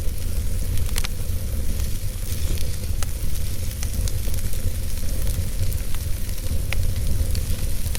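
Wood fire burning in a fireplace: a steady low rumble and hiss, with sharp crackles from the burning logs, the clearest about a second in and near the seven-second mark.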